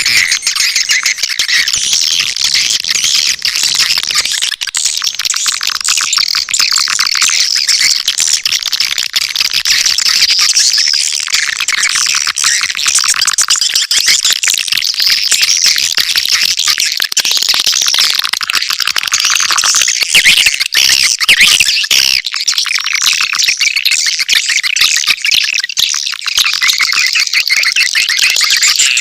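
Swiftlet lure call: a dense, continuous chorus of high twittering chirps from edible-nest swiftlets, played as a calling track to draw birds to a swiftlet house.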